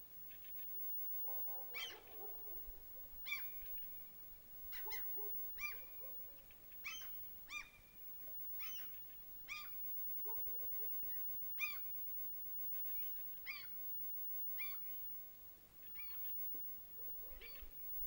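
Bird calls: a short, clear call repeated irregularly about once a second, each note briefly rising and falling in pitch, with fainter calls in between.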